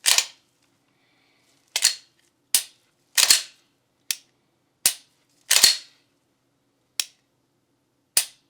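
Sharp metallic clicks and snaps from a Glock 19 Gen 5 pistol being worked by hand, nine in all at uneven intervals. Some are single short clicks and a few are longer, scraping snaps.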